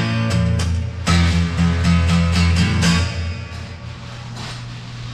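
Live guitar music: strummed chords over a steady bass line, loud for about three seconds and then dropping off as the song ends.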